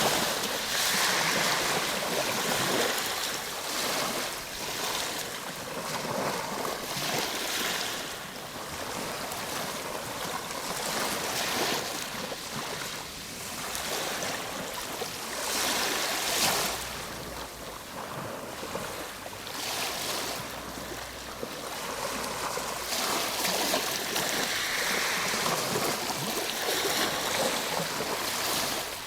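Ocean waves washing ashore in a continuous surf hiss that swells and eases every few seconds.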